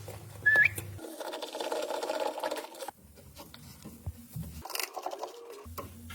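A tool working on a BMW's steering rack end runs with a fast, fine rattle for about two seconds. Just before it, about half a second in, there is a short rising squeak.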